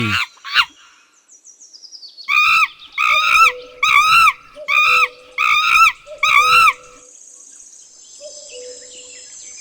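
A monkey calling: a run of about seven short, arched calls in quick succession, roughly one and a half a second. The calls are followed by a steady high-pitched buzz.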